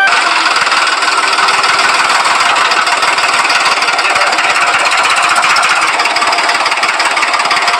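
A miniature model diesel engine of a DIY water pump running with a loud, rapid, steady clatter.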